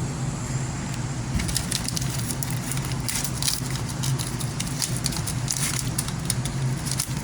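Metal foil duct tape crackling and crinkling in many short clicks as it is wrapped and pressed around a duct, over a steady low hum.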